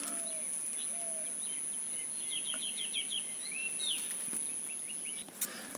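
Small birds chirping: scattered short calls, a quick run of repeated chirps in the middle and a slurred call, over a thin steady high tone that stops near the end.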